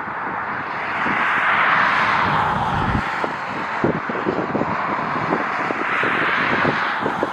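Jet airliner engine noise, a broad rush that swells about a second in and again near the end, with gusts of strong wind buffeting the microphone in irregular low thumps.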